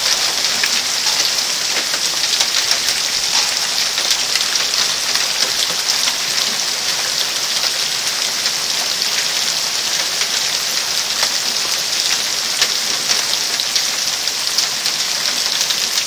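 Hailstones pelting down steadily: a dense hiss dotted with many small sharp clicks as the hail bounces off cars and the ground.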